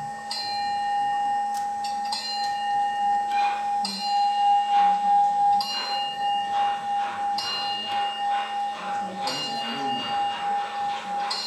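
A bell struck again and again, about every two seconds, leaving a steady ringing tone between strikes. A rapid clatter of small clicks joins about three seconds in and fades near the end.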